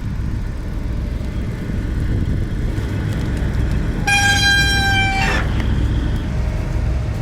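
A boat's horn sounds once for a little over a second: a steady, fairly high tone that dips slightly as it ends. Under it is a steady low rumble.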